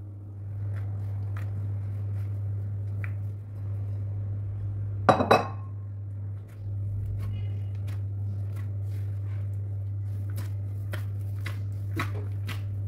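Kitchen dishes and glassware clinking and being set down, with a loud clatter of clinks about five seconds in and lighter clicks later, over a steady low hum.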